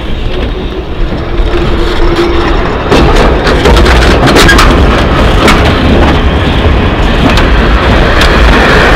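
Nevada Northern Railway train of vintage wooden cars rolling past at close range: a steady rumble with sharp wheel clicks over the rail joints. It gets louder about three seconds in as the cars reach the spot.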